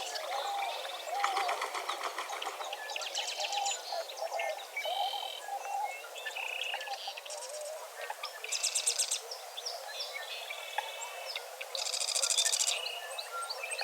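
Dawn chorus of many birds singing and calling at once: fast trills, chirps and whistles overlapping one another, over lower, wavering calls.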